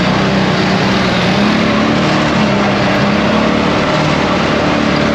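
ATV engine running steadily under way, its pitch shifting slightly up and down, over a constant rushing noise.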